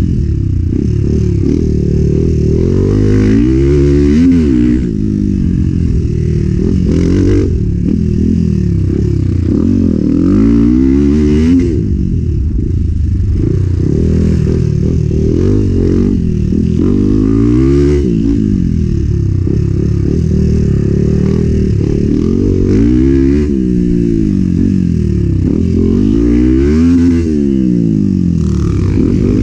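Enduro motorcycle engine ridden hard off-road, the revs continually climbing and dropping as the throttle is worked.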